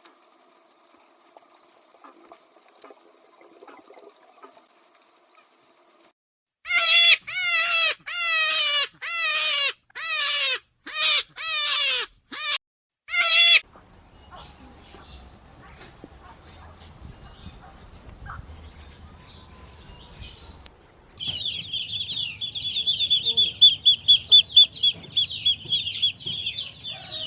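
A run of animal calls: first about nine loud, separate calls that fall in pitch, then a string of high, evenly pulsed chirps, then a fast, unbroken high trill.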